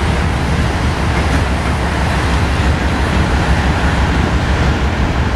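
Electric commuter train passing along a far track: a steady, loud rumbling noise of wheels on rail, with its last car going by partway through.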